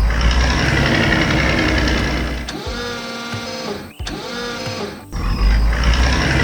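Machine-style sound effects for animated construction vehicles: a steady low engine rumble with a mechanical grinding noise. About two and a half seconds in it gives way to a motor whine that rises and then holds, cutting off sharply near four seconds. The rumble starts again about five seconds in.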